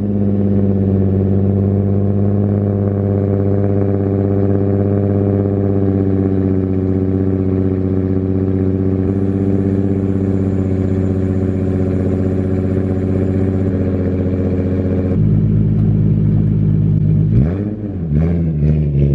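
Nissan 350Z's V6 engine idling fast and steady just after a cold start. About 15 seconds in the sound changes abruptly, and near the end the engine is revved twice.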